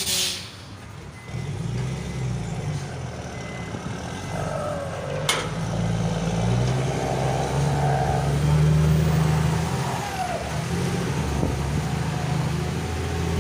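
Heavy truck's diesel engine and exhaust running, swelling louder over the first several seconds with a deep note, an exhaust described as very fierce although the engine is not remapped. A single sharp click about five seconds in.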